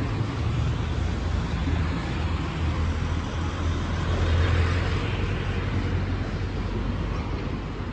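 Steady low rumble of rail-yard and city traffic noise from a train running out of view, swelling briefly about four to five seconds in.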